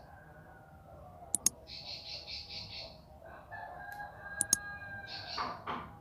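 Bar-winged prinia (ciblek) singing a rapid, buzzy chirping trill, once about two seconds in and again near the end. Sharp clicks stand out twice, and a long drawn-out call sounds lower beneath the trills.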